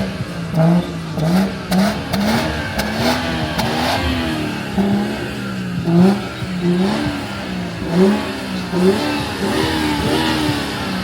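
Car engine revved repeatedly, its pitch climbing and dropping back about once a second.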